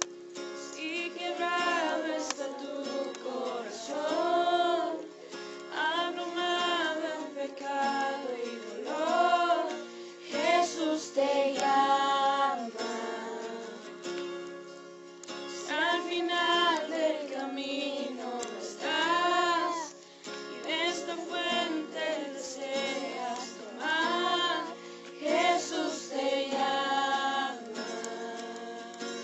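Voices singing a slow worship song in phrases of a couple of seconds each, over steady acoustic guitar accompaniment.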